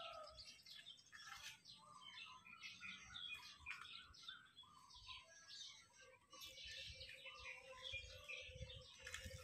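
Faint chirping and twittering of many small birds.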